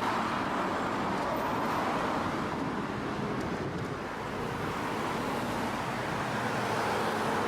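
Steady city street traffic noise, an even continuous rush of passing vehicles.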